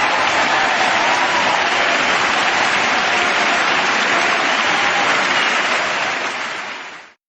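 Crowd applauding: dense, steady clapping that fades out near the end.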